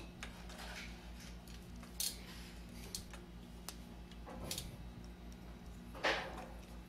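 A few separate metallic clicks and clinks as the cap screws of a Columbia automatic drywall taper are tightened down with hand tools, the loudest near the end, over a steady low hum.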